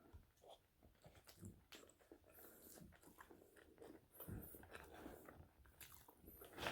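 Close-up mouth sounds of a person biting and chewing seasoned French fries: quiet, irregular crunches and wet chewing clicks, with a sharper bite near the end.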